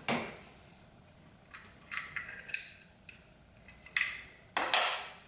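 Metal tools and fittings clinking and clattering in a few irregular knocks, the loudest near the end, some with a short metallic ring.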